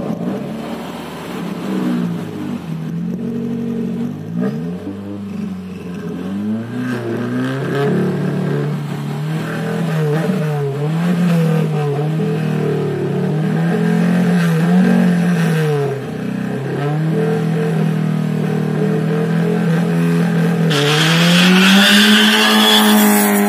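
Honda Brio's four-cylinder engine revved again and again at the drag-race start line, the revs rising and falling in quick blips while held up near launch revs. About 21 seconds in the car launches: the engine pitch climbs hard and tyre noise comes in as it pulls away.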